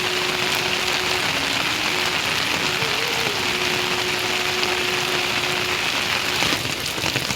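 Heavy rain falling steadily, a dense even hiss. A faint held note that steps in pitch a few times sits beneath it.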